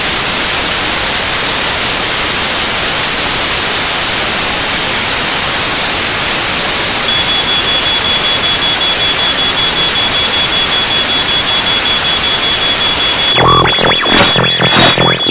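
Loud, steady static hiss, a broadcast signal breaking up, with a steady high-pitched tone joining about halfway through. Near the end the static cuts off abruptly and electronic music with a beat begins.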